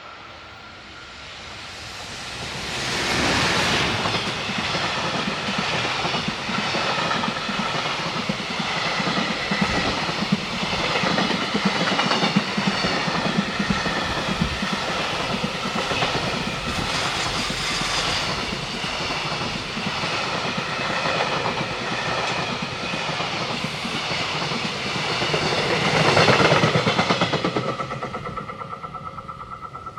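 Container freight train passing close by: it comes up loud about two seconds in, then a long run of rhythmic clickety-clack from the wagon wheels over the rail joints, a second loud swell near the end as the last wagons go past, then fading.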